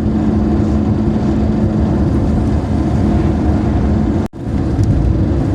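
Daewoo Matiz driving at highway speed: steady engine and road rumble, with a hum that fades out about halfway through. The sound cuts out for an instant a little after four seconds.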